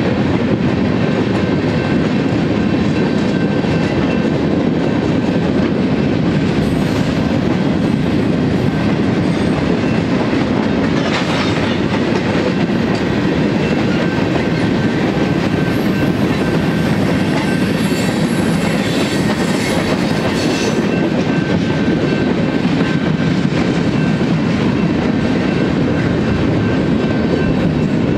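Freight cars of a mixed manifest train (covered hoppers, tank cars and boxcars) rolling past at steady speed: a continuous rumble of steel wheels on rail with a clickety-clack over the joints.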